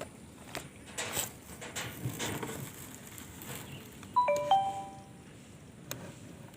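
A two-note chime, a higher brief tone then a lower longer one, about four seconds in. It is the loudest sound here, with scattered light clicks and knocks around it.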